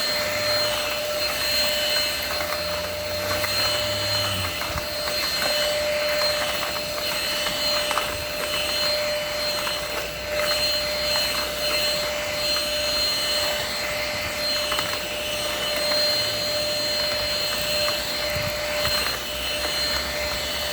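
INSE N-5 cordless stick vacuum running steadily with a high whine, sucking up pine needles and leaves, with scattered faint ticks of debris going into it.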